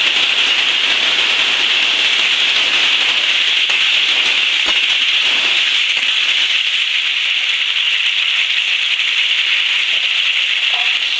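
Okra in poppy-seed paste sizzling steadily in a non-stick kadai as the added water cooks off, with a few light scrapes and taps of a metal spatula stirring it.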